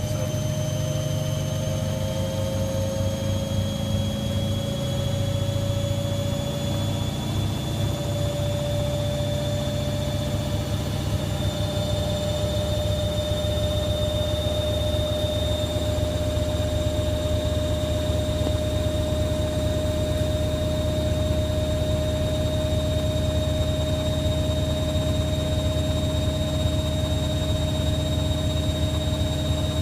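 Hoover Logic 1300 A3790 washing machine spinning: a steady rumble from the drum with a motor whine that slowly rises in pitch as the spin gathers speed.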